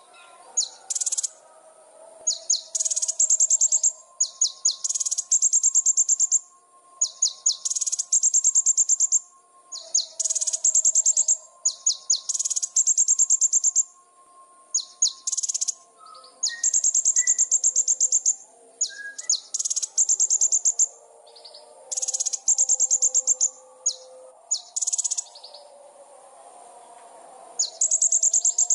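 A small songbird singing high, rapid trilled phrases about a second long, one after another every second or two. Fainter, lower tones run underneath. This is a masteran song recording, the kind played to teach cage birds to sing.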